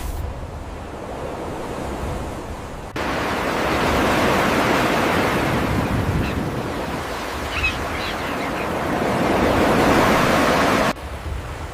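Ocean surf washing on a beach, a steady rushing noise that jumps louder at about three seconds, swells near the end and drops off abruptly shortly before the end.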